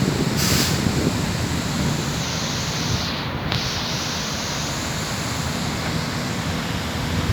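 Strong wind buffeting the microphone over heavy surf breaking on the beach, a steady rushing noise with a fluttering low rumble.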